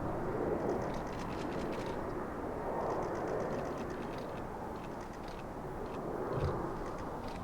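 Distant jet airliner noise: a steady rushing rumble that swells and eases slightly, heard in open air.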